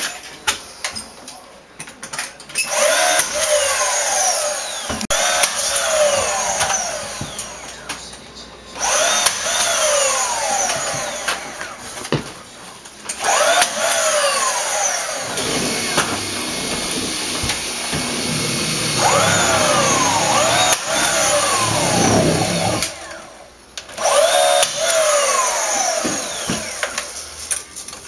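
Power drill running in several bursts of a few seconds each with short pauses between, its motor whine repeatedly falling and rising in pitch as the trigger is squeezed and eased.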